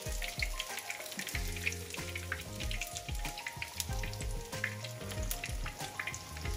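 Panko-breadcrumbed whiting fillets shallow-frying in oil in a pan, sizzling with frequent small pops and crackles. Background music with a steady beat plays underneath.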